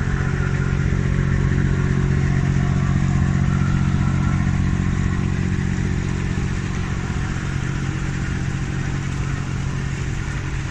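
Boat engine running steadily while the boat is under way, a constant low drone with water and wind hiss over it.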